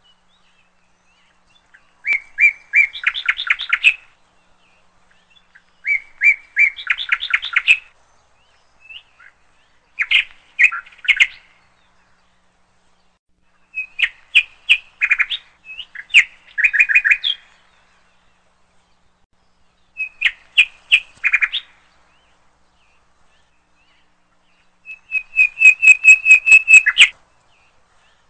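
A songbird singing short, rapid trilled phrases every few seconds with quiet gaps between, the last a longer, fast, even trill near the end.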